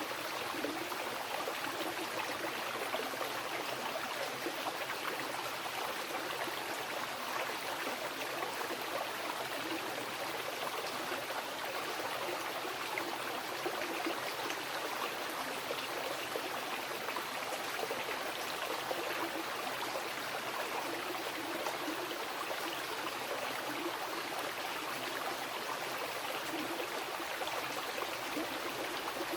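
Wild mountain river flowing, a steady, even rush of water with no breaks or changes.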